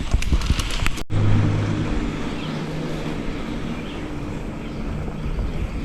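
Bicycles riding along a paved road, with wind on the microphone and a low steady hum. The hum is loudest just after a cut about a second in and fades over the next few seconds; a few sharp clicks come in the first second.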